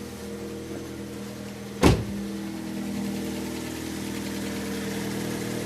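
Fiat Albea engine idling steadily just after being started, with no knock: the knocking was caused by loose exhaust manifold studs, which have now been tightened. A single sharp thump about two seconds in.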